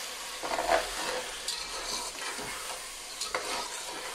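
Chicken pieces sizzling in a non-stick pot as a slotted spatula stirs yogurt through them, with a steady frying hiss and a few louder scrapes of the spatula against the pot.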